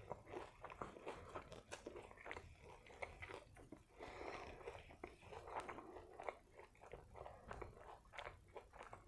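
Close-up chewing of a bite of a Ghost Pepper Whopper with bacon and fried chilies: soft, wet mouth smacks and occasional light crunches at an irregular pace.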